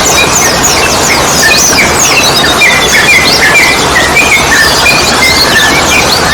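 A dense chorus of yellow-vented bulbuls (trucukan) chirping rapidly, with many short quick notes, over a steady loud hiss-like background noise: a bird-therapy recording used to get young trucukan singing.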